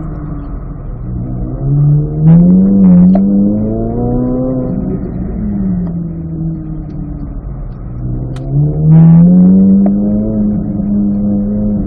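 C8 Corvette Z06's 5.5-litre flat-plane-crank V8 pulling in second gear at low speed, heard from inside the cabin. It revs up about two seconds in, eases off midway, and revs up again about eight and a half seconds in.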